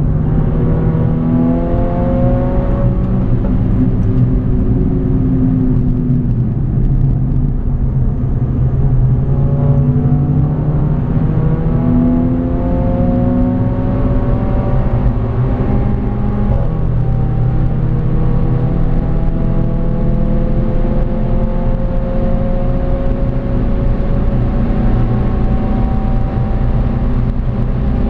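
Mercedes A45 AMG's turbocharged four-cylinder engine, heard from inside the cabin, pulling hard under full throttle. Its pitch rises steadily through each gear, with upshifts breaking the rise, the last about sixteen seconds in, followed by a long climb to the end. A steady road and wind rumble runs underneath.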